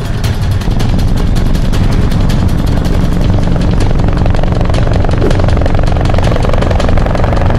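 Vehicle engine and wind rush at high highway speed, heard on board a pursuing vehicle: a loud, steady drone with a rapid pulse.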